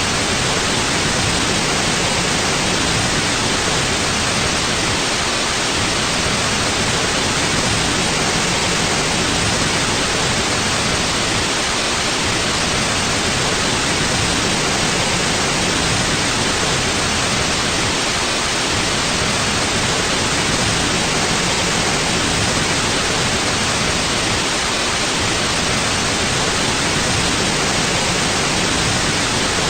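Steady white noise: an even, unbroken hiss across the whole range, with no change in level or character.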